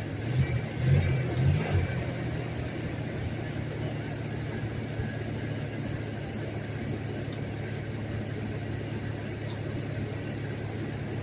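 Engine of a homemade doodlebug skidder built from a 1990 Dodge W250 running steadily, with a few brief rises in engine speed in the first two seconds.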